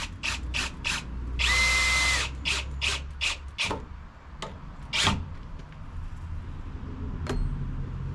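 Hand-tool work: a run of quick, sharp scraping strokes, about three a second at first. About a second and a half in, a power tool runs briefly with a steady whine, and more strokes follow.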